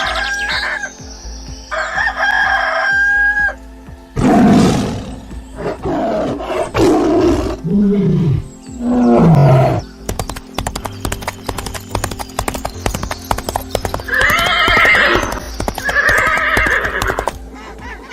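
A rooster crows twice. It is followed by a series of loud, harsh farm-animal calls, which sound like a horse neighing, with a rapid clicking patter in the middle like hooves on hard ground.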